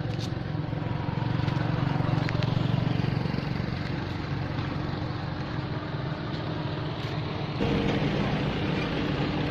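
A steady low engine drone that runs without a break and steps up in level, with a slightly different note, about three-quarters of the way through.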